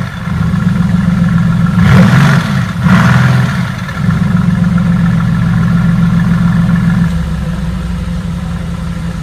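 Mercedes-AMG GT S 4.0-litre twin-turbo V8 idling, revved twice in quick succession about two seconds in, then settling back to a steady idle that drops lower near the end.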